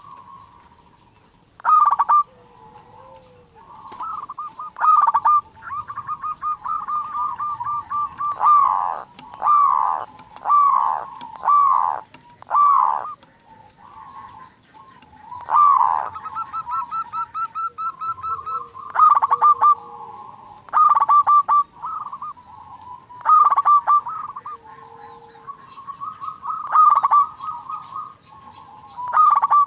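Zebra dove (perkutut) cooing: repeated phrases of rapid, pulsing coos every second or two, some notes dropping in pitch.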